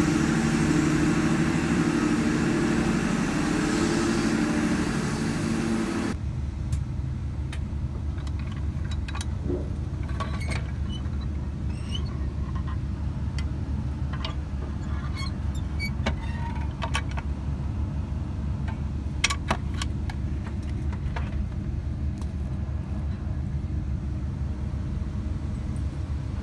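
Train noise at a station platform, a steady hum with several pitched tones, which cuts off abruptly about six seconds in. It is followed by the steady low rumble heard inside a Canberra Xplorer diesel railcar carriage, with scattered light clicks and knocks.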